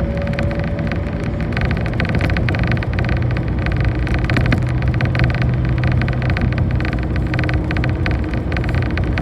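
Bus heard from inside the cabin while riding: a steady engine drone and road noise, with many small rattles throughout.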